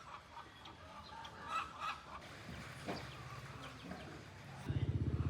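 Chickens clucking in short scattered calls. Near the end a loud, evenly pulsing engine starts up close by and drowns them out.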